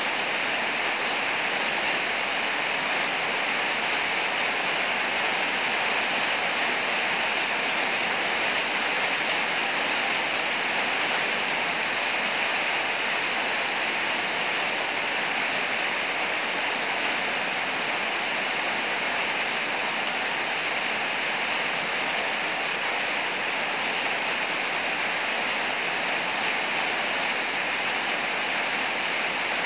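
Heavy rain falling in a steady, unbroken hiss, with no thunder.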